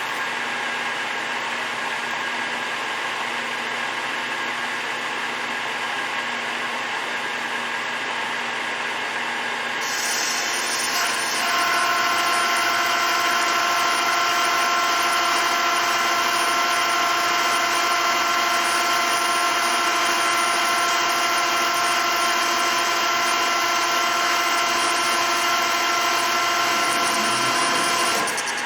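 Takisawa TSL550 engine lathe running steadily. About ten seconds in the sound grows louder, and a steady whine of several tones sets in as the tool takes a roughing cut on the 40 mm outside diameter; the whine stops just before the end.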